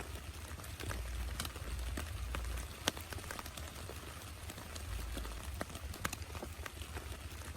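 Rain falling steadily, with scattered sharp drop ticks striking a nearby surface and a low rumble that swells and fades.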